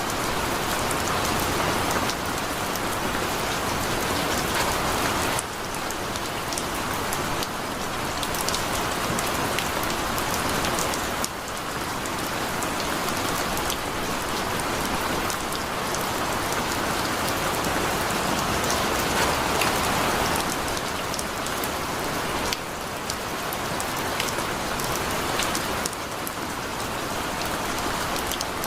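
Heavy rain falling steadily, a dense hiss with many individual drops ticking on surfaces. The level steps down abruptly a few times.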